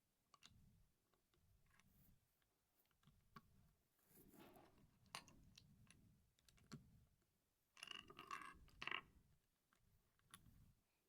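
Faint, scattered clicking and rattling of small plastic Lego pieces being handled, with two busier bursts about four and eight seconds in.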